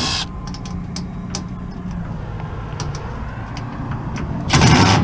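Truck engine running with a steady low hum and faint ticks, heard from inside the cab. A loud rushing noise lasting about half a second comes near the end.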